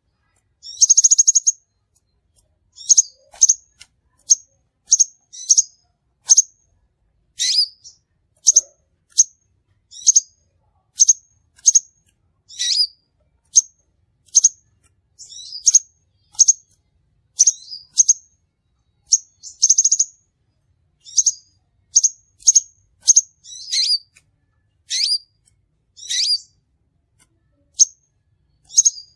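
Crimson sunbird calls played as a bird-trapping lure: short, high, sharp chips repeated about once or twice a second. Some sweep down in pitch, and a few are buzzy trilled notes.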